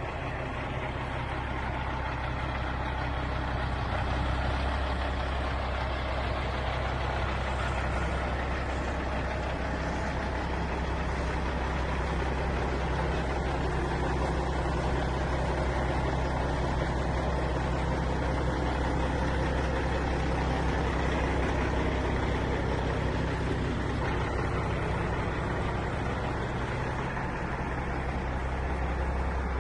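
Diesel engine of a Peterbilt semi truck idling steadily, its low pitch holding constant throughout.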